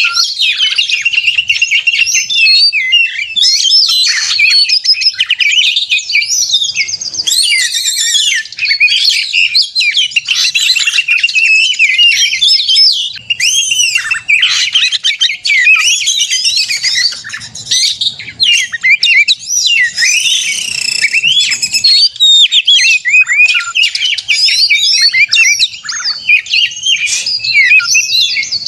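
Oriental magpie-robin (kacer) singing loudly and without a break in its aggressive 'narung' fighting song: a rapid, ever-changing stream of gliding whistles, chirps and harsher notes.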